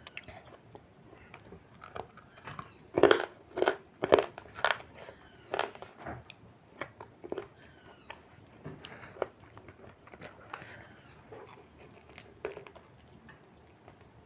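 Close-up eating sounds: biting into and chewing crispy cornflour-coated baked chicken wings, a series of separate crunchy bites and wet chews, the loudest cluster a few seconds in.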